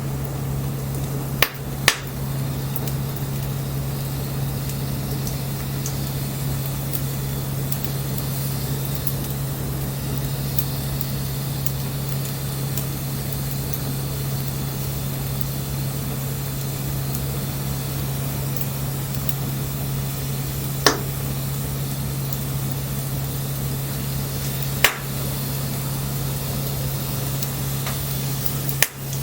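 Wood bonfire burning with a steady hiss and a steady low hum, broken by a few sharp pops of crackling wood: two close together near the start, then single ones later on.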